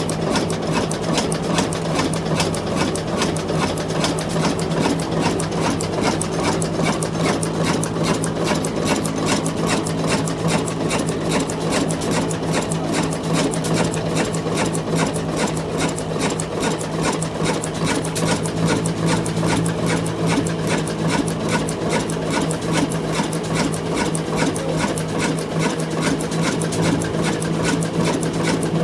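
Old diesel engine of a flour (atta) mill running steadily, with a rapid, even knocking beat over a constant low hum.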